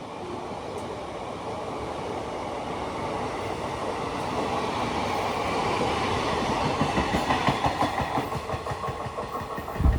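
Kolkata EMU local train drawing near and passing close, its running noise building steadily. From about two-thirds of the way in comes the rhythmic clickety-clack of wheels over rail joints, with a heavy thud near the end.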